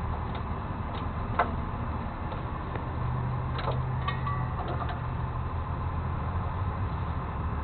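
Truck engine running steadily, with a few light clicks and rattles over it.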